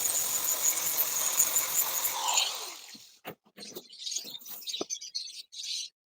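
A steady rushing noise that fades out about halfway through, followed by small birds chirping in short, quick, repeated calls.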